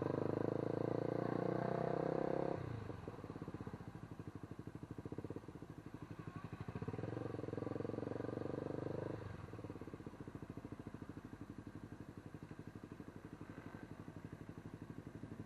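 An engine running with a fast, even pulse. It is louder for the first couple of seconds and again for a few seconds in the middle, and settles lower in between.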